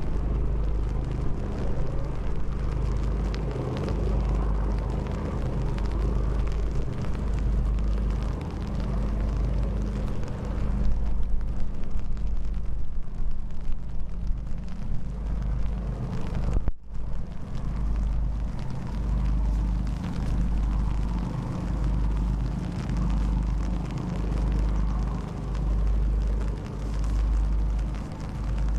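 Strong wind buffeting the microphone in gusts, over the steady drone of a boat engine on the river.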